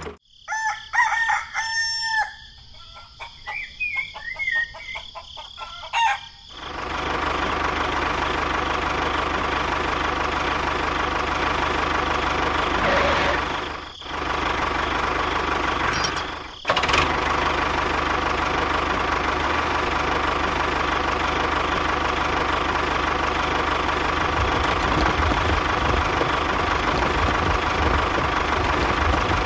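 A rooster crows and clucks for the first few seconds. About six seconds in, a model tractor's small motor starts running steadily, with two brief dropouts near the middle.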